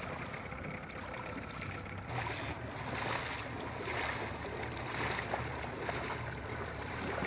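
Water sloshing and splashing with wind on the microphone and a steady low hum underneath, growing louder and more uneven about two seconds in.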